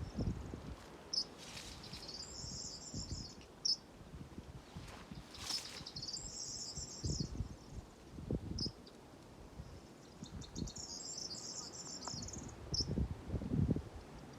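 Insect trilling high in pitch in bursts of about two seconds, three times, with short single chirps between them. Low rustling and knocking sounds run underneath.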